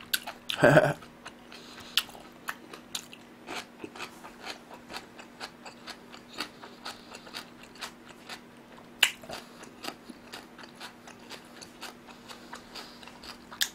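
Close-miked chewing of food, with irregular wet mouth clicks and smacks. A brief voiced hum comes less than a second in.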